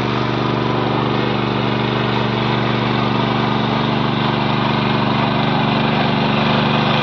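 Engine of a ploughing machine running steadily at an even speed, a constant close drone.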